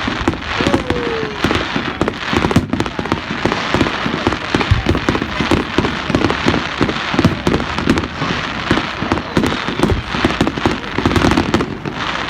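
Fireworks going off: a dense, unbroken run of rapid pops and crackling bursts.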